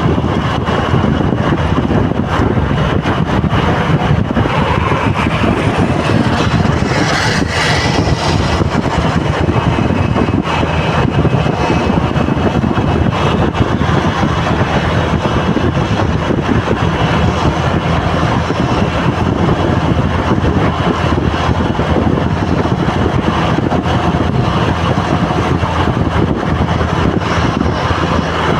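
Road traffic: vehicle engines running in congested traffic, with wind noise on the microphone. About seven seconds in there is a brief louder hiss.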